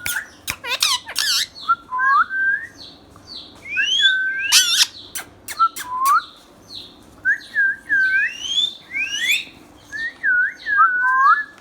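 Indian ringneck parakeet calling: a run of short whistled notes that glide up and down, mixed with sharp screeches near the start and again around the middle.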